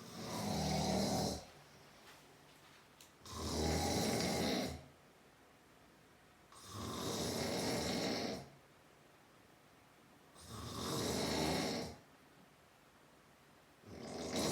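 A sleeping man snoring loudly: long snores about every three and a half seconds, each lasting a second and a half or so, five in all, the last beginning near the end.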